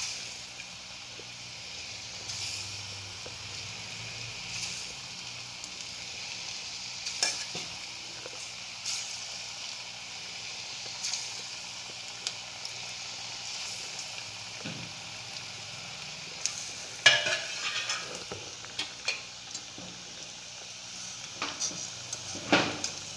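Small flattened urad dal (black gram) dough patties frying in hot oil, a steady sizzle. Sharp clinks and taps come now and then, most densely a little over two-thirds in and again near the end.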